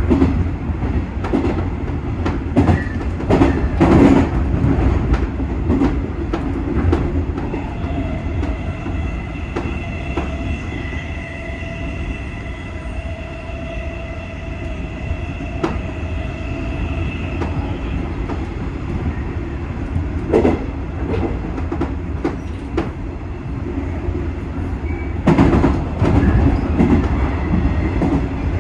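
JR 201 series electric commuter train running at speed, heard from the driver's cab. There is a steady low rumble with sharp clacks of the wheels over rail joints, bunched near the start and again about 25 seconds in. A steady high-pitched tone is held for several seconds in the middle.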